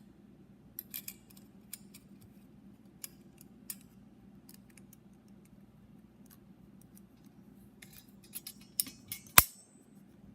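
Light metallic clicks and ticks of a second compression ring being handled and fitted onto a piston, with one sharp click near the end followed by a brief high ring, over a faint low hum.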